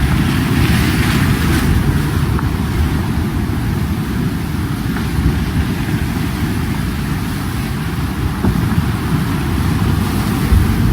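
A steady, loud, low rumbling noise with no clear pitch, unchanging throughout.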